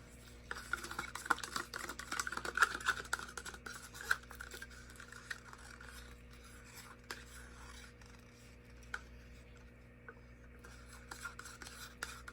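Light scratching and rubbing with small clicks and taps as acrylic paint is handled and worked into a plastic cup. It is busiest in the first few seconds and sparser after that.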